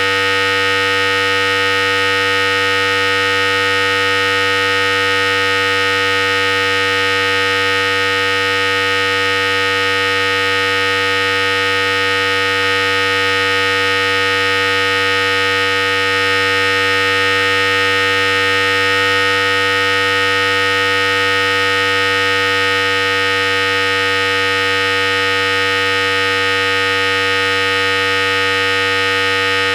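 Philips Series 5000 electric hair clipper running continuously, giving a steady, unchanging electric buzz.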